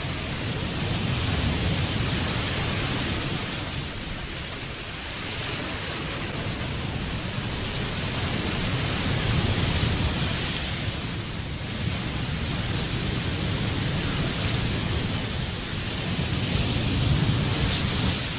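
Heavy surf surging and breaking against rocks: a continuous rushing noise that swells and eases every few seconds.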